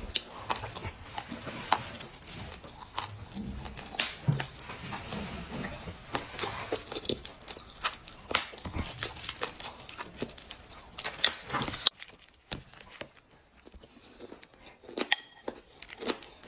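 Dry clay crunching and crackling in irregular sharp clicks, with a quieter spell about three quarters of the way through before a few more crisp cracks.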